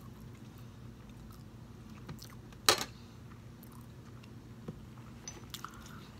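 A person chewing food close to the microphone, with small wet mouth clicks. One sharp click stands out a little under three seconds in.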